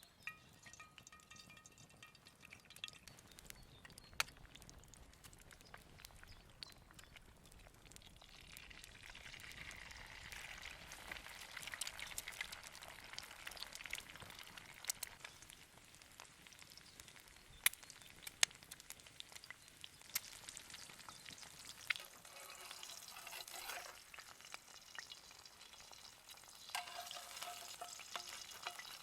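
Food frying in a pan over a campfire: a steady sizzle that swells about a third of the way in, with scattered sharp pops and crackles.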